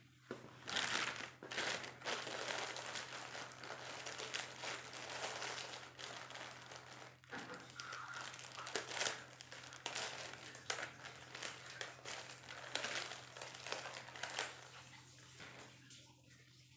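Irregular rustling and crinkling, as of something being handled or crumpled, over a faint steady low hum.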